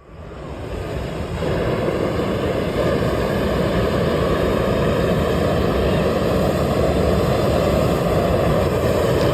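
Steady rushing road and wind noise from a moving vehicle, rising over the first second and a half and then holding level.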